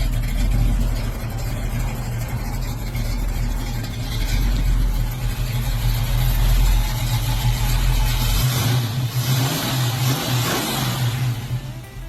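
Mercury Cougar's V8 running through Tri-Y headers and a Flowmaster 40 Series dual exhaust, the engine sound swelling through the middle and easing near the end.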